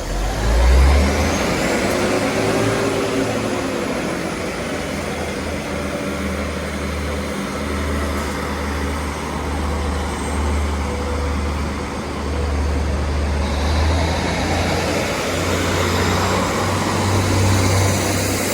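Two coupled Class 156 diesel multiple units pulling away, their underfloor diesel engines running with a steady deep rumble. A faint whine rises in the first couple of seconds.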